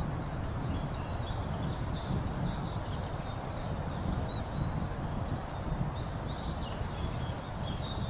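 Small songbirds chirping and twittering in the background, in many short, scattered notes, over a steady low rumble.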